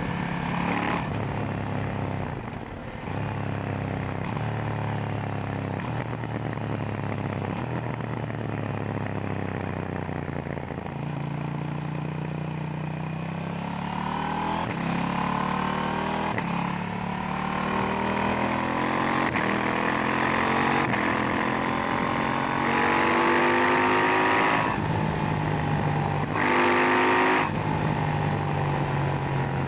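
KTM 890 Duke R parallel-twin engine running on its stock silencer while being ridden. Through the first third its note falls in steps as it slows, then over the second half it rises steadily as it accelerates, dropping briefly twice near the end with the shifts before climbing again.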